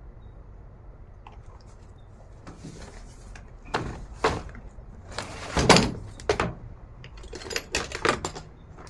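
Metal hand tools clanking and knocking: a run of sharp clatters begins about four seconds in, over a low steady hum.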